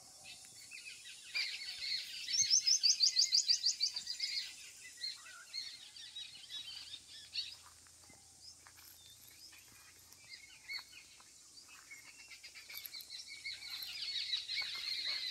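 Small birds chirping and singing. A fast, loud trill of about ten notes a second comes a couple of seconds in, followed by scattered chirps and another busy bout of chirping near the end.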